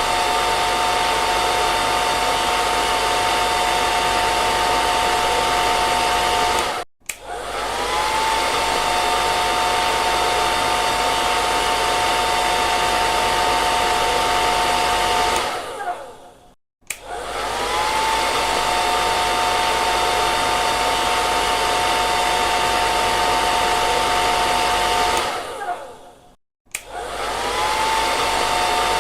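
Hair dryer running with a steady rush of air and a high motor whine. It cuts off abruptly about seven seconds in, then twice more winds down with a falling whine, and each time it starts again with a rising whine.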